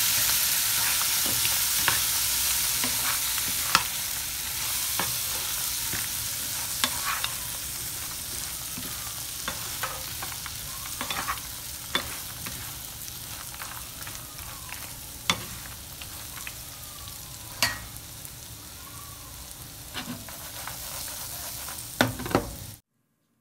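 Diced tofu frying in oil in a nonstick pan, a steady sizzling hiss that slowly fades, with a wooden spatula stirring and knocking against the pan in scattered sharp clicks. The sound cuts off suddenly near the end.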